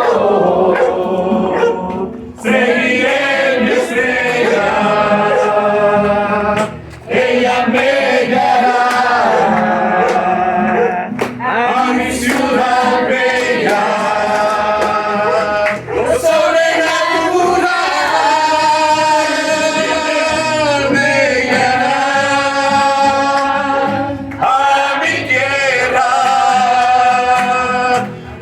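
Hymn sung in Spanish by a man's voice with a group, in long held lines with short breaks between phrases.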